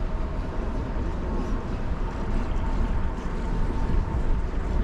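Steady low rumble of wind and a cruise ship under way, with a faint steady machinery hum.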